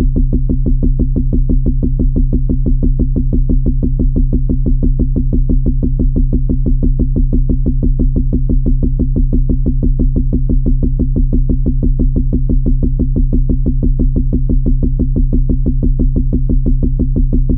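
Electronic drum-machine and synthesizer loop: a steady low synth drone pulsing evenly several times a second, unchanging throughout.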